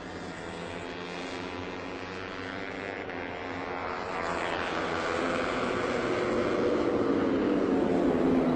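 MotoGP racing motorcycle engines at high revs, growing steadily louder, with a falling pitch in the second half as a bike passes.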